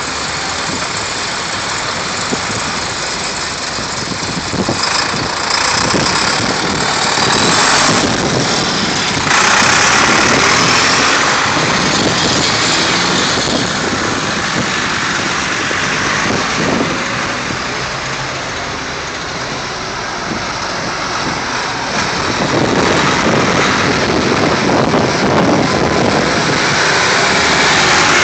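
Vintage tractor engines running, the sound swelling louder twice as the machines move.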